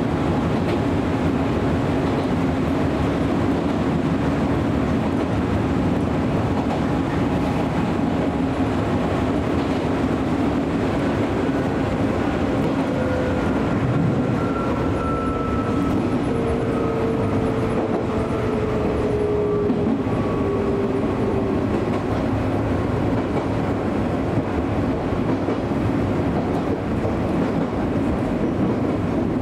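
Izuhakone Railway electric train running between stations, heard from inside the car: a steady rumble of wheels on rail and running gear. From about 13 to 21 seconds in, a faint motor whine sounds and falls slightly in pitch.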